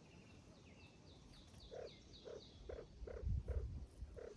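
Grouse giving a series of about six short, low clucking calls, roughly one every half second. A run of quick, high chirps sounds in the first half.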